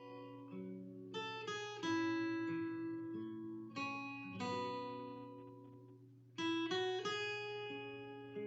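Intro music: acoustic guitar picking a gentle melody in two phrases, each note ringing and fading, with a short pause about six seconds in.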